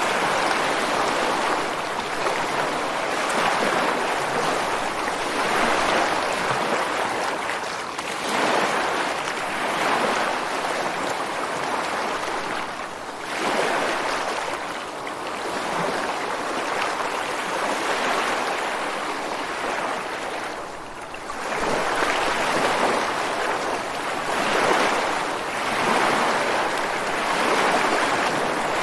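Ocean waves breaking and washing ashore, a continuous rushing surf that swells and eases every few seconds as each wave comes in.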